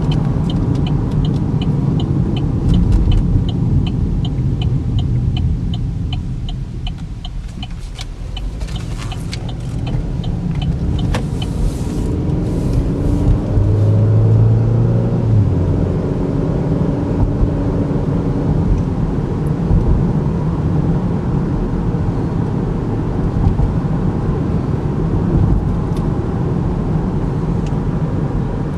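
2013 Chevy Equinox's 2.4-litre four-cylinder and road noise heard from inside the cabin while driving, with a steady low rumble. A regular ticking runs through the first seven seconds or so. The sound eases off about eight seconds in, and the engine rises again from about thirteen seconds in as the car pulls away.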